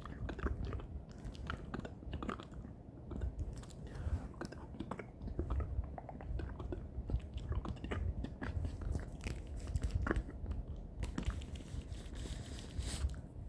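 ASMR mouth sounds made close to the microphone: a string of irregular, wet clicks and smacks from the lips and tongue.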